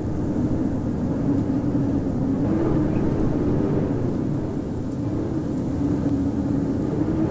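Howling winter wind: a steady rush of wind with a low moaning tone that slowly wavers up and down.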